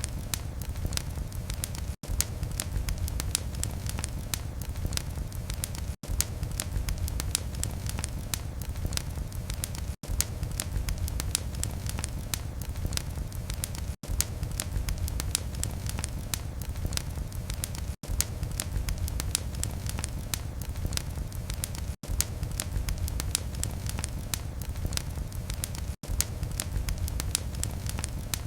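Wood fire crackling in a fireplace: a steady low rumble of flame with many sharp pops and crackles. The sound cuts out very briefly about every four seconds.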